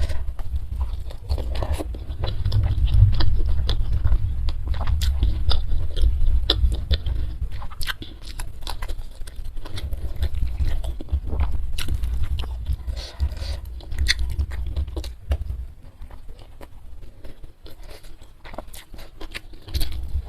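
Close-miked chewing and biting of food, with many small crisp clicks and crunches and wet mouth sounds.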